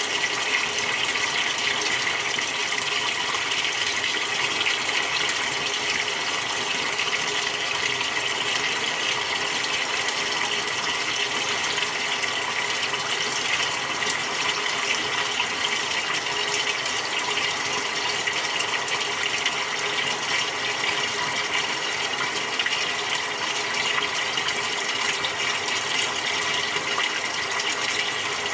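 Water running steadily in a Samsung 6.5 kg top-loading washing machine during its quick cycle, an even rush of water that does not change.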